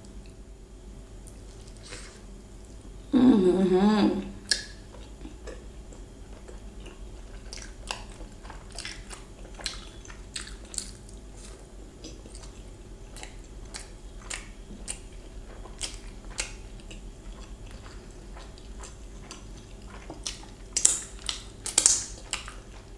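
Close-up chewing of a sauce-dipped paneer momo: soft, wet mouth clicks and smacks throughout, a few louder ones near the end. About three seconds in comes one loud, short vocal sound from the eater.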